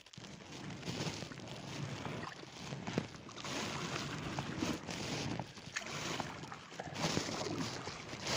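Kayak paddle strokes in calm water: splashing and dripping that swell and fade every couple of seconds, with small sharp splashes now and then.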